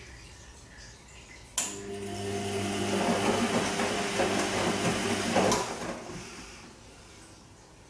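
Bosch Serie 2 VarioPerfect washing machine's drain pump clicking on, running for about four seconds with a steady hum, then cutting off with a click.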